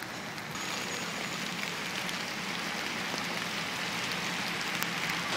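Steady rain falling, an even hiss that gets a little louder about half a second in.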